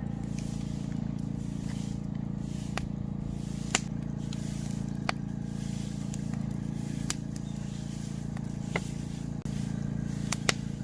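Wood campfire crackling, with a sharp pop every second or two over a steady low hum.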